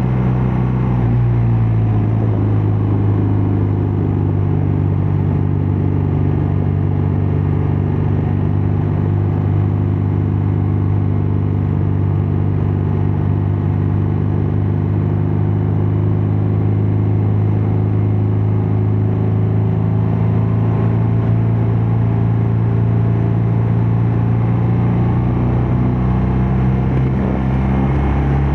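BMW R12 nineT motorcycle's air/oil-cooled boxer twin running under way. The engine note drops about a second in, holds steady while cruising, and climbs slowly over the last several seconds.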